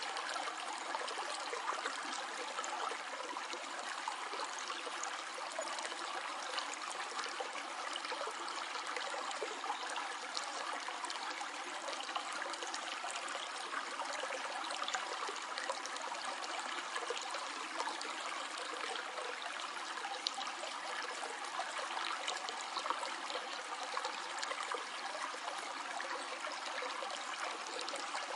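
A small stream flowing over stones, a steady trickling and gurgling of water.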